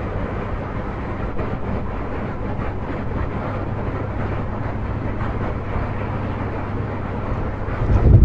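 Steady road noise from a car driving along: low tyre and engine rumble. A brief, louder low thump comes right at the end.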